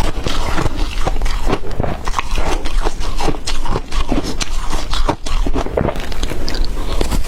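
Shaved ice, dipped in water, being bitten and chewed: a dense, continuous run of crunches and crackles.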